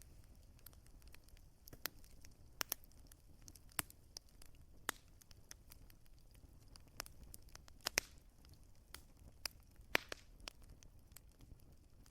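Wood fire crackling: irregular sharp pops and snaps, a few louder ones about two-thirds of the way in, over a faint steady low rumble.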